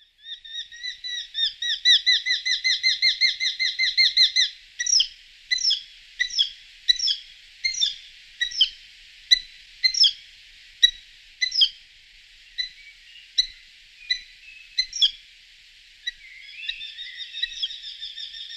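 Songbird singing: a quick run of repeated high chirps, then single sharp call notes a little under a second apart, then another chirping run near the end.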